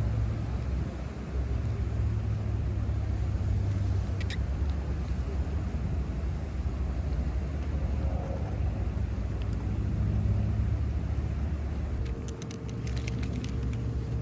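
An engine running steadily with a low rumble, which drops off about twelve seconds in.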